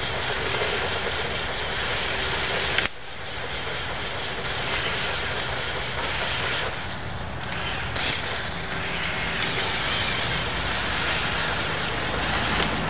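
Electric motors and gears of a remote-controlled Lego trial truck running as it drives, under a steady hiss. The sound changes abruptly about three seconds in.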